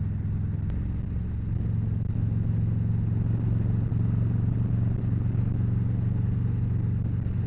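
Harley-Davidson Road Glide V-twin engine running steadily on the road, with wind and road noise, growing slightly louder about two seconds in.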